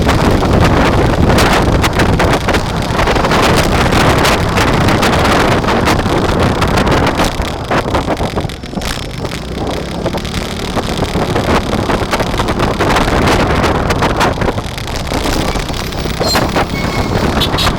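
Loud wind buffeting the microphone of a moving bike, over a steady rumble, with a few brief knocks.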